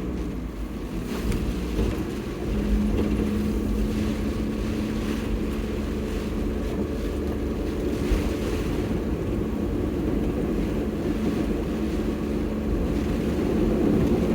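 Kei truck's engine droning steadily inside the cab, under a wash of water noise as the truck drives along a flooded road. The engine note gets louder about two and a half seconds in.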